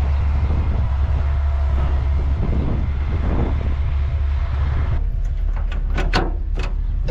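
Vehicle engine running with a steady low rumble, joined near the end by a few sharp knocks.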